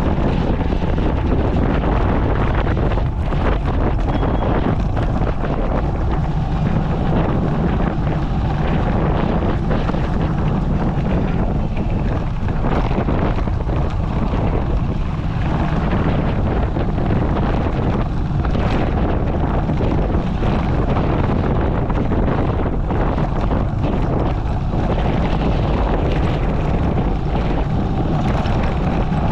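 Steady wind rush on an action-camera microphone on a moving motorcycle, with the motorcycle's engine running underneath.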